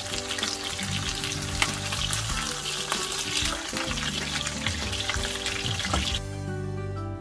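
Food sizzling and crackling as it fries in hot oil. The sizzle cuts off suddenly about six seconds in.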